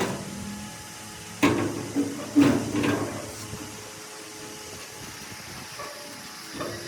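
A few short knocks and clunks, four of them within about a second and a half, then one fainter knock near the end, over a low steady background.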